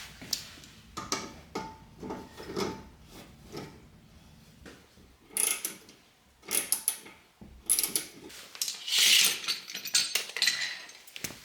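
Steel tape measure being pulled out and handled, with irregular clicks, rattles and scraping.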